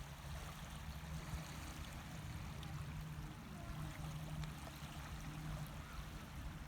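Water rushing and splashing along a moving boat's hull, over a steady low hum.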